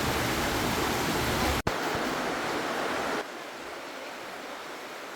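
Steady rushing noise, like running water or wind on the microphone. It breaks off for an instant about a second and a half in, then drops to a quieter, thinner rush a little after three seconds.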